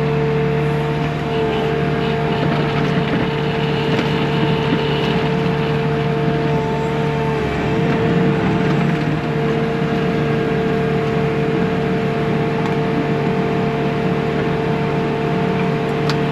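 Bobcat T630 compact track loader's diesel engine running steadily under work, with a held whine over the engine note.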